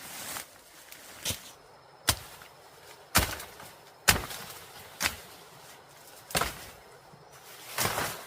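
A series of sharp strikes from a hand tool, about one a second, each with a short ringing tail: construction work on bamboo.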